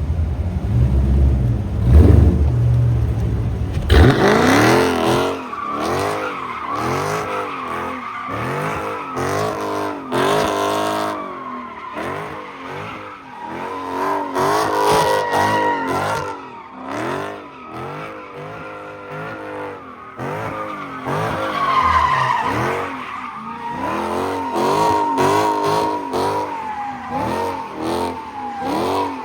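Muscle car doing a burnout. The engine runs low at first, then about four seconds in it starts revving up and down over and over, while the tyres squeal steadily under it.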